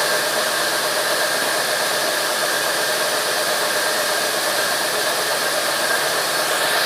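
Sawmill machinery running steadily: a loud, even whine over hiss that stays unchanged throughout.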